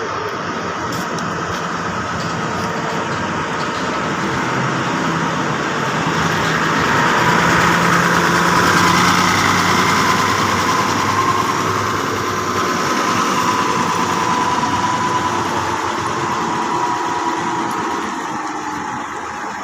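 Heavy vehicle's engine running under way, its level and pitch building to a peak about eight seconds in and then easing off.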